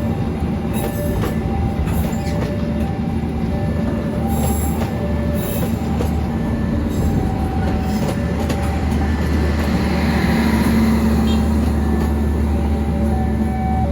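Train running past at close range: a steady, loud rumble with the clatter of wheels over rail joints, swelling about two-thirds of the way through. A faint two-note tone repeats over it.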